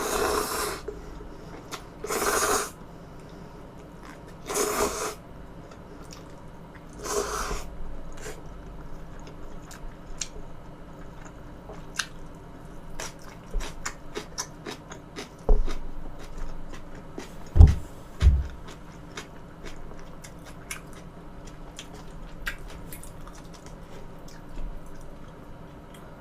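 Close-miked eating sounds. Four brief rustling bursts come about two and a half seconds apart, then a long run of small wet mouth clicks and chewing, with two low thumps about two-thirds of the way through.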